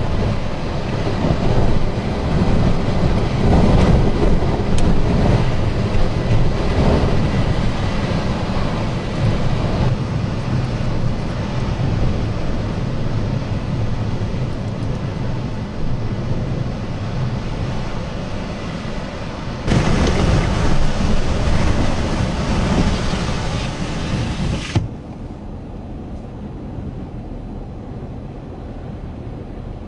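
Strong wind gusting and buffeting the microphone as loud, rumbling noise. It turns hissier about twenty seconds in, then drops abruptly to a quieter, steadier rush for the last five seconds.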